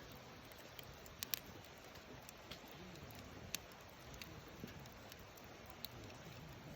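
Wood campfire burning faintly: a low steady hiss with a few sharp, scattered crackles and pops, the loudest about a second in.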